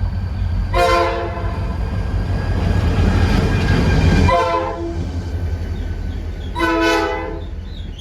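Nathan mixed-cast P5A air horn on a GP40-3 diesel locomotive sounding three short blasts, about a second in, halfway through and near the end, over the steady rumble of the running diesel engine. The horn's chime is fouled, as the owner puts it.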